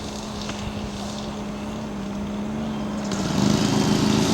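Radio-controlled scale model Piper's engine running steadily in flight, growing louder about three seconds in as the model comes closer, with its pitch rising slightly near the end.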